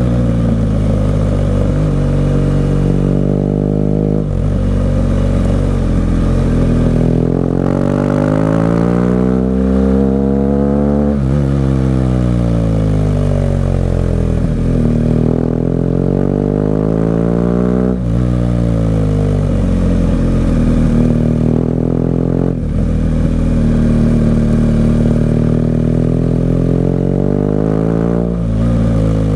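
BMW R 1200 GS Adventure's flat-twin boxer engine through an SC-Project exhaust, under way on a twisting road. The revs climb and fall over and over as the rider accelerates and backs off, with a few abrupt drops in pitch.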